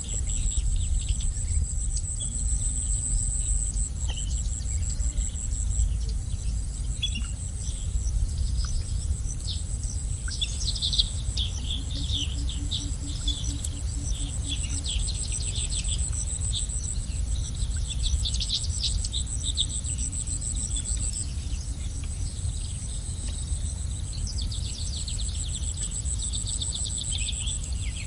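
Small songbirds chirping in bursts of quick, high notes. Under them runs a continuous high, rapidly pulsing insect trill, like a cricket, over a steady low rumble.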